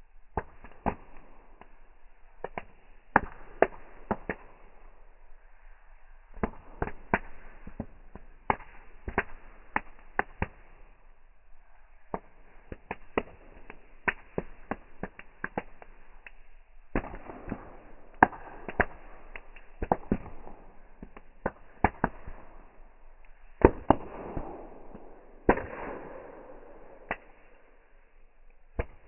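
Bonfire burning: wood crackling and popping in many irregular sharp snaps, some louder than others, over a steady rushing of the flames.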